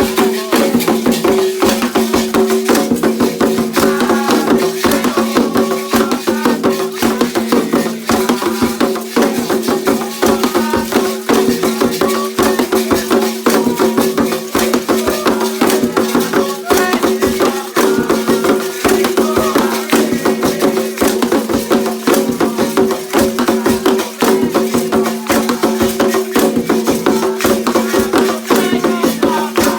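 Candomblé ritual music: fast, steady hand percussion with rattles, over a held low drone, with voices singing.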